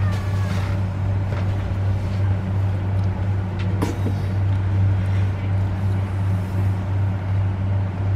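Train's steady low hum and running noise, with a single sharp click about four seconds in.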